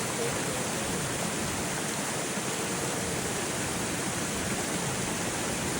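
Steady rushing noise of falling or running water, even and unbroken.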